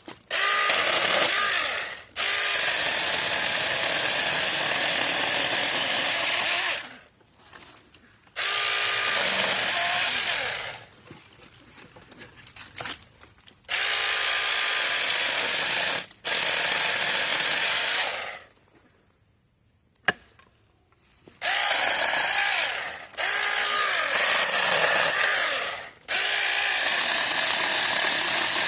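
Battery-powered mini chainsaw running in repeated bursts of a few seconds each while cutting small pieces of wood, with short pauses between cuts. Several bursts start with a rising whine as the motor spins up.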